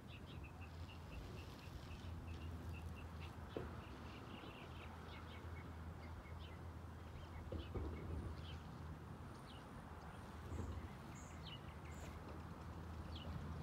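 Small birds chirping: a quick run of short high chirps in the first couple of seconds, then scattered chirps. Underneath runs a steady low hum, with three faint dull knocks spread through.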